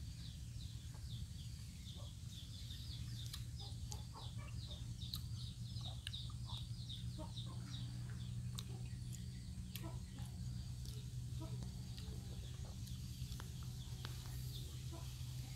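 Birds calling: clucking and a quick run of short high chirps through the first half, then sparser calls, over a steady low hum.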